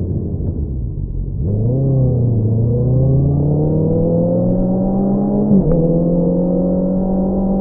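2022 Honda CBR650R's inline-four engine through an Akrapovič single-outlet exhaust. The note sags off throttle, then about a second and a half in picks up and rises steadily under acceleration, with a brief sharp break near the three-quarter mark before holding a steady, higher note.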